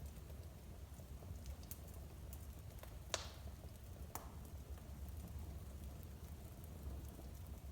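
Wood fire crackling in a home fireplace: scattered small crackles over a low steady rumble, with two sharper pops about three and four seconds in.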